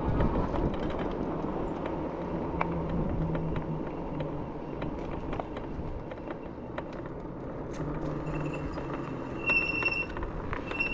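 E-bike rolling with light rattles and clinks, its brakes squealing in several high-pitched stretches from about eight seconds in.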